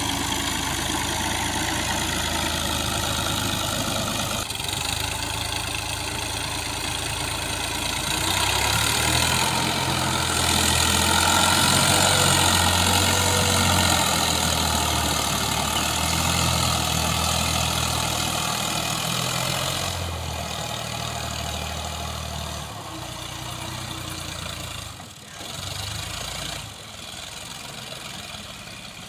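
Al-Ghazi tractor's diesel engine running, rising to a louder, higher-revving run for about ten seconds in the middle, then settling back to a quieter idle.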